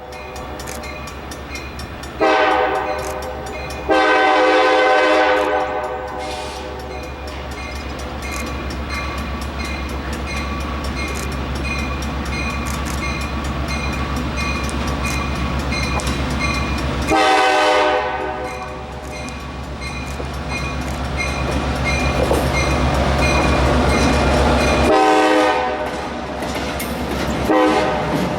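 Diesel freight locomotive, an EMD GP38, sounding its horn in two blasts a few seconds in, then passing with a steady low engine drone and rolling cars, with further horn blasts about two-thirds of the way through and near the end.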